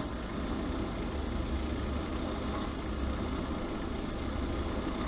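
Steady road-traffic noise: a low, even rumble of vehicle engines and tyres on the road.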